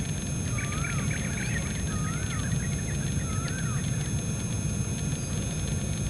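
Birds calling: three short whistled notes that rise and fall, about a second and a half apart, with thin twittering over the first half. Under them runs a steady low rumble.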